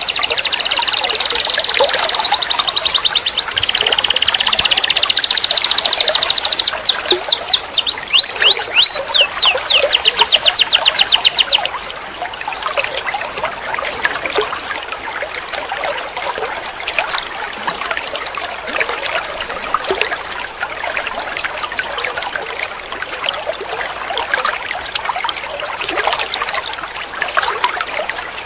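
Domestic canary singing a run of fast rolling trills, switching to a new pitch every second or two. About twelve seconds in the song stops, leaving a quieter trickling, water-like noise with faint chirps.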